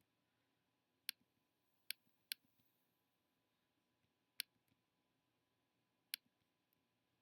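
Five sharp, isolated computer mouse clicks, spaced irregularly, over near silence.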